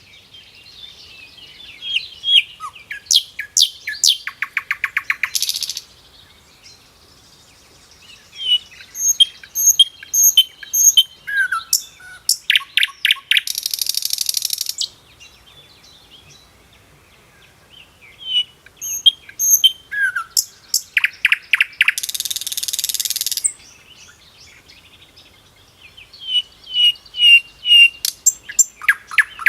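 A songbird singing the same song phrase four times with short pauses between. Each phrase is a run of high chirps and whistled notes, then a fast stuttering trill, and ends in a harsh buzz.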